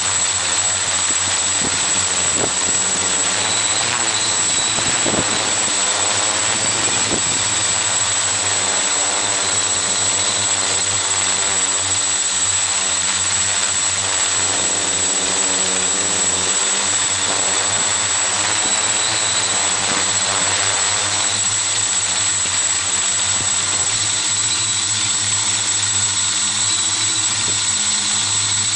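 Xaircraft X650 quadcopter's electric motors and propellers running in flight, picked up by the camera mounted on the craft: a steady whir whose pitch drifts as the motors change speed, with a thin high whine running through it.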